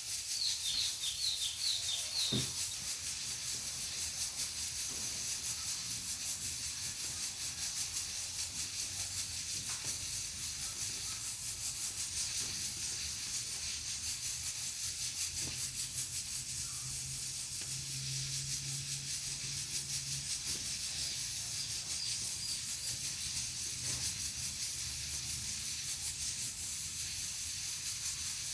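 Pressure cooker on a wood-burning stove, its valve letting out a steady hiss of steam. A bird chirps rapidly over the first couple of seconds, and the wood fire gives an occasional sharp crackle.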